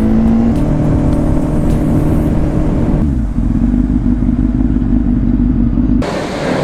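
Motorcycle engine running at a steady pitch as the bike rides along, with an abrupt change in the sound about six seconds in.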